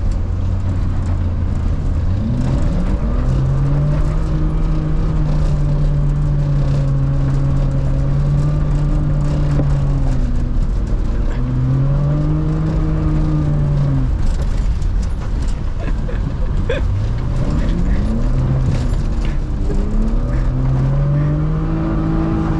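BMW E36 325is's straight-six engine revved hard several times, each time climbing and held at high revs for a few seconds before dropping back.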